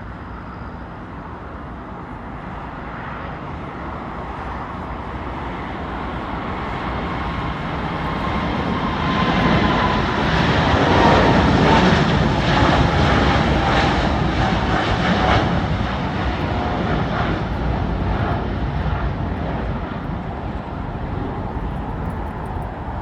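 Boeing 747-8 freighter taking off, its four GEnx-2B turbofans at takeoff power. The engine noise builds to a peak about halfway through, with a whining tone that slides down in pitch as it goes past, then slowly fades.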